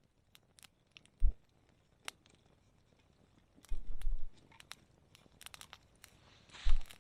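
Wood campfire crackling, with sharp irregular pops and snaps from the burning wood. A few dull low thumps come through as well, the loudest near the end.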